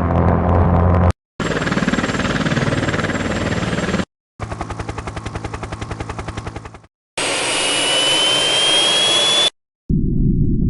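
Military jet aircraft sounds in a string of abruptly cut clips: a low engine rumble, a rushing engine noise, a rapid even pulsing of about a dozen beats a second, then engine noise with a high whine rising steadily, and a deep rumble near the end.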